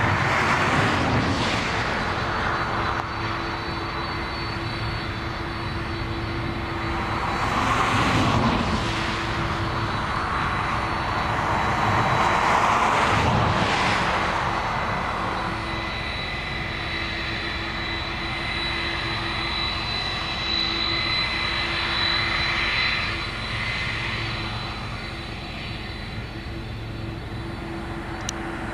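Jet airliner engines running: a steady high whine over a rushing engine noise that swells and fades three times.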